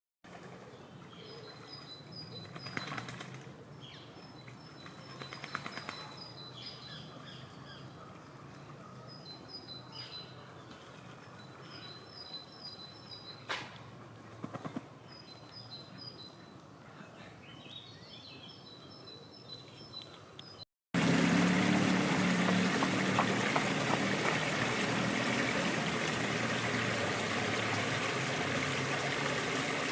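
A small songbird calling in short repeated phrases of high, quick chirps over a quiet background. About 21 seconds in, this cuts abruptly to the loud, steady rush of flowing water.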